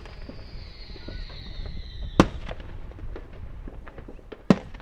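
Fireworks going off: two loud bangs, about two seconds in and near the end, with scattered smaller pops and crackling between them and a faint whistle falling slightly in pitch during the first two seconds.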